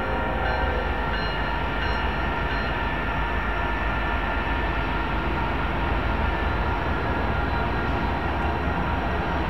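Union Pacific freight train's lead diesel locomotives running with a steady low rumble as they slowly approach.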